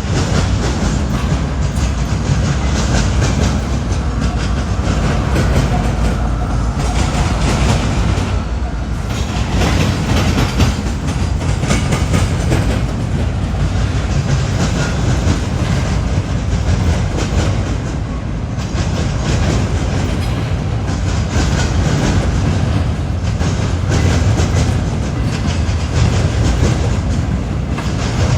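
Freight train cars rolling past at close range: a steady heavy rumble with the clickety-clack of wheels over rail joints.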